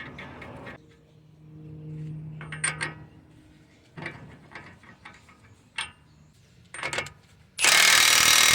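A hand ratchet clicking briskly on the 32 mm six-point axle nut of a new front CV axle, then a few light metal clinks. About three-quarters of the way through comes a loud burst of about a second and a half from an impact gun running on the nut.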